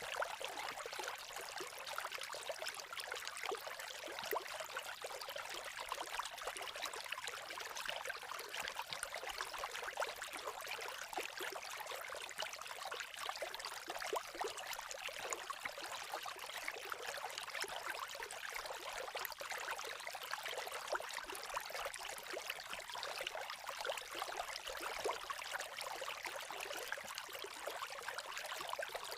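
Campfire crackling steadily: a dense run of small pops and snaps over a soft hiss, with little low end.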